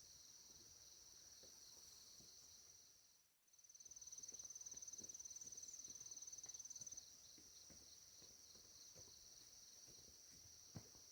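Faint, steady high chirring of insects. It cuts out briefly about a third of the way in, then comes back as a louder, rapidly pulsing trill for about three seconds before settling into the steady chorus again. There is a faint tap near the end.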